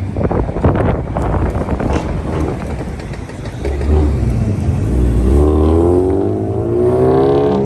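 A car engine revving. It runs rough with many sharp crackles for the first few seconds, then revs up, its pitch climbing steadily over the last two and a half seconds.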